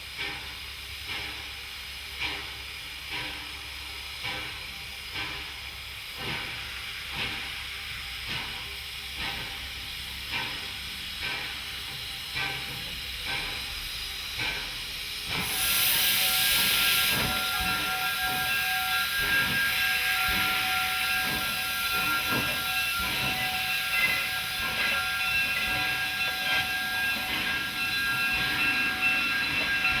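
Steam locomotive working slowly, its exhaust chuffing about once a second. About halfway through comes a sudden burst of steam hiss, then a steam whistle sounds a long, steady chord of several tones.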